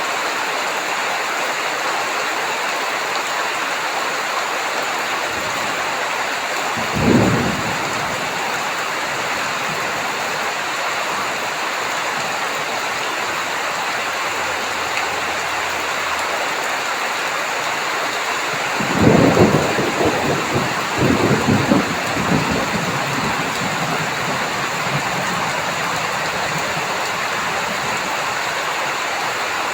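Heavy rain falling steadily, with a short clap of thunder about seven seconds in and a longer rolling rumble of thunder from about two-thirds of the way through.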